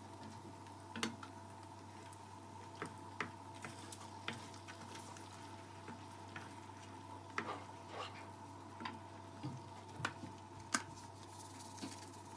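Scattered light clicks and taps, about a dozen at irregular intervals, over a steady low electrical hum.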